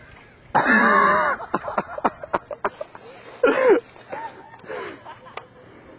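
A person's voice without words: a loud cry lasting most of a second about half a second in, and a shorter falling one about three and a half seconds in, with scattered sharp clicks between them.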